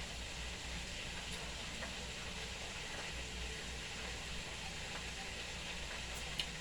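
Steady hiss over a low hum, with a faint tick or two near the end.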